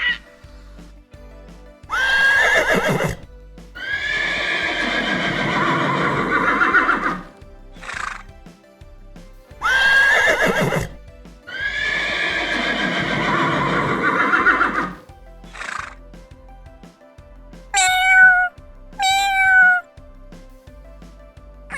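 Horse neighing twice, the same long quavering whinny repeated, over background music with a steady low beat. Near the end come two short falling animal calls.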